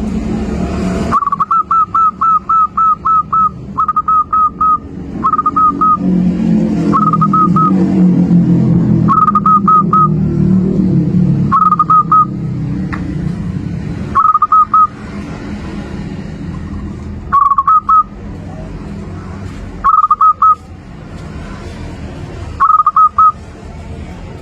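Zebra dove (perkutut) cooing in rapid, clipped, high notes. It opens with a run of about eight or nine notes, then gives short phrases of three or four notes every two to three seconds. A low rumble runs underneath, strongest in the first half.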